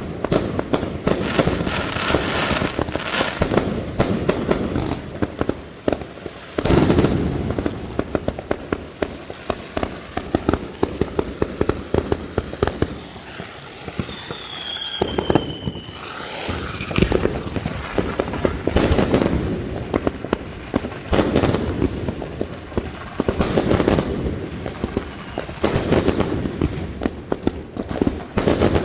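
Fireworks going off without a break: dense rapid crackling and popping, with heavier bangs every couple of seconds in the second half. A few short whistles glide down in pitch, once near the start and twice about halfway through.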